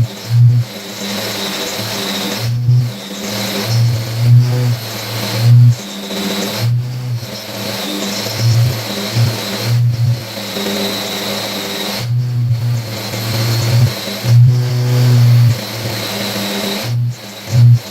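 Electric power tool motor running with a steady high whine, its low note swelling and easing in stretches as it is worked against the metal, with brief cut-outs every few seconds.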